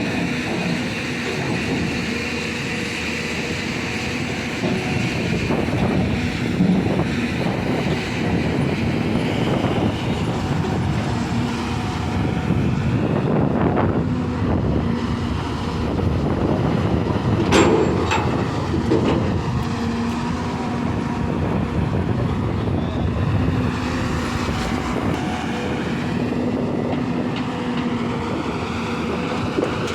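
Hyundai excavator's diesel engine running under load with clanking from the machine while it loads a truck, with one sharp metallic knock a little past the middle.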